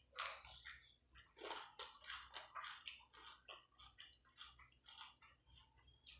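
Close-up chewing of a mouthful of hand-eaten rice and green chicken curry: a quick, uneven series of short clicks throughout.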